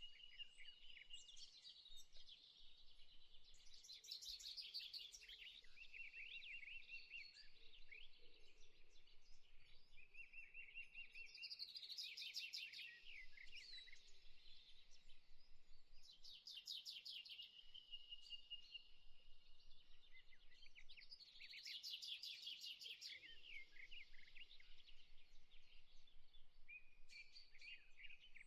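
Faint birdsong: high chirps and quick trills that come back every four to five seconds, with thin held notes in between.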